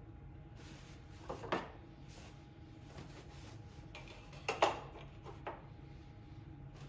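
A few short knocks and clicks of parts or tools being handled on the mower: one about one and a half seconds in, a sharper pair a little past the middle and a lighter one soon after. A steady low hum runs underneath.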